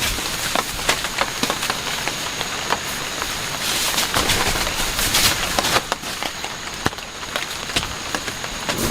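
Heavy rain falling steadily, with many separate drops tapping sharply close by. The downpour swells louder for a couple of seconds in the middle.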